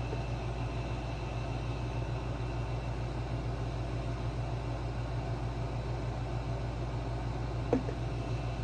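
Steady low machine hum with a fast flutter and a faint hiss, and one light click near the end.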